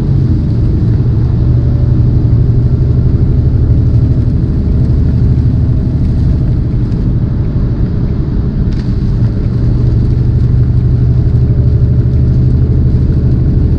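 Tractor-trailer's diesel engine and road noise, a loud steady low drone heard from inside the cab while driving slowly.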